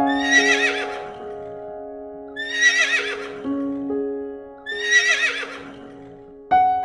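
A horse whinnying three times, each call high and quavering and about a second long, over background music with held notes.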